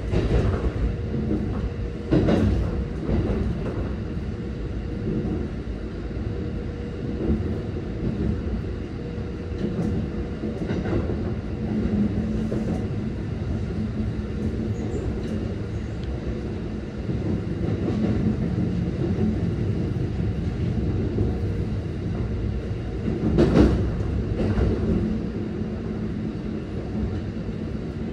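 Keikyu 600 series electric train running, heard from inside the passenger car: a steady rumble of wheels on rail, with a few louder clatters along the way.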